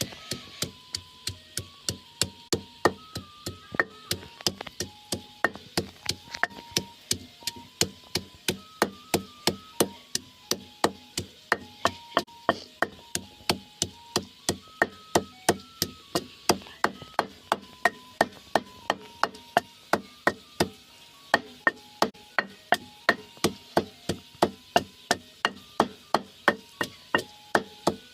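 Knife chopping on a wooden cutting board in steady, even strokes, about three a second.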